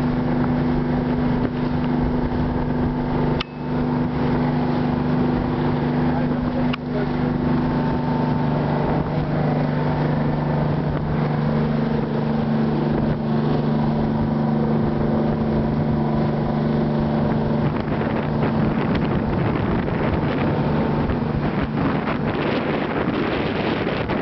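Boat engine running steadily with a constant hum, briefly dipping twice early on. Rushing wind and water noise grows stronger in the last few seconds.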